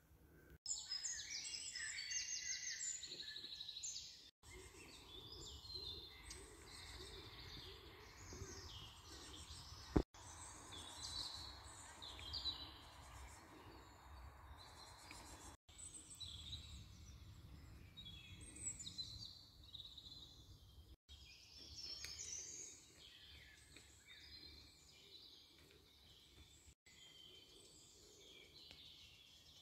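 Several woodland birds chirping and trilling over a low, steady outdoor hum. The sound drops out briefly every five or six seconds, and there is one sharp click about ten seconds in.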